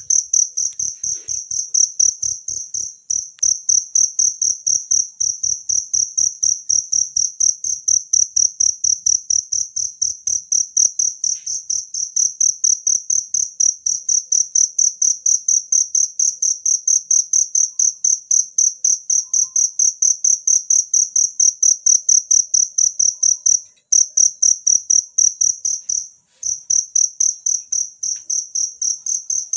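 Cricket chirping in a fast, even rhythm of about four high-pitched chirps a second, breaking off briefly twice near the end.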